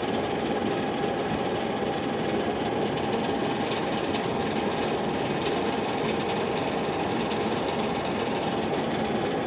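Steady, even mechanical running noise with a faint constant hum; no distinct knocks or changes.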